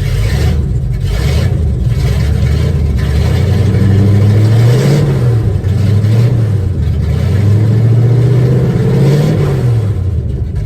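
Classic Ford truck's engine running loudly and being revved up and back down three times, about halfway through, a second later and near the end. The engine is still cold after a cold start and tends to stall, which the owner puts down to running cold or a carburettor that needs adjusting.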